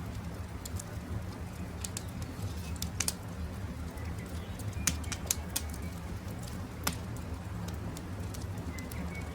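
Campfire crackling, with sharp pops about 3, 5 and 7 seconds in over a steady low rumble of the burning fire. Faint short bird calls come through a couple of times.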